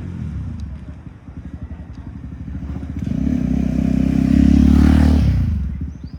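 Motorbike engine passing close by, growing louder to a peak about five seconds in and then fading away.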